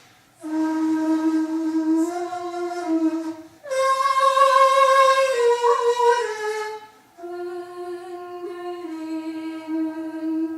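Daegeum (Korean transverse bamboo flute) playing long held notes in three phrases, each broken by a brief breath. The middle phrase is higher and loudest, and the notes shift in pitch by small steps.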